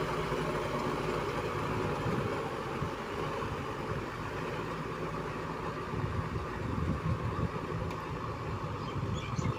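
ACE DI 6565 tractor's diesel engine running steadily.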